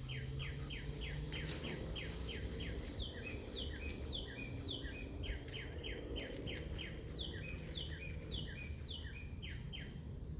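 Garden birds singing: a rapid, steady series of short falling chirps, about four a second, with longer, higher descending notes from a second bird over it, above a steady low background rumble.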